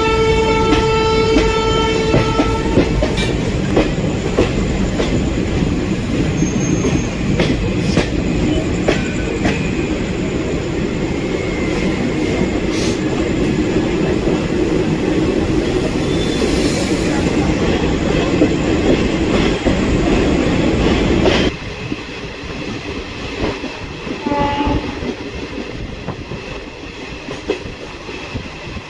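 Train horn sounding at the start and stopping after about two and a half seconds. The train then runs on with a loud, steady rumble and the clatter of wheels over rail joints. The sound drops suddenly to a quieter rumble about 21 seconds in.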